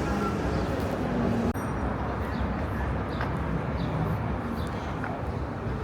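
City street traffic: a steady mixed rumble of passing vehicles on an avenue.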